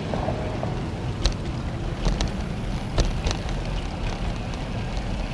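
Wind rushing over the microphone and tyre noise on a bicycle being ridden along the road, broken by a few sharp clicks.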